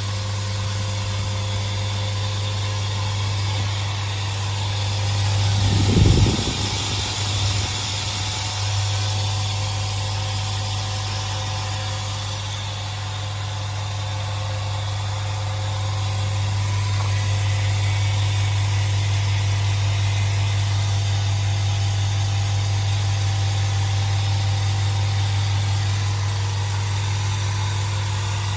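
SIP QT100/10 low-noise air compressor running steadily as it fills its tank from empty, a constant low hum. A brief low bump and rumble about six seconds in.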